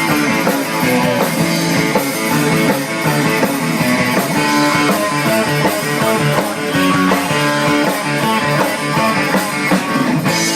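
Live rock band playing an instrumental passage: loud electric guitars over a steady drum beat.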